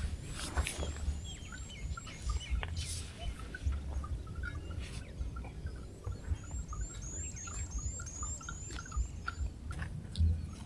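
Small birds calling outdoors: two runs of quick, high, repeated chirps, about three a second, over scattered lower chirps, with low thumps underneath throughout.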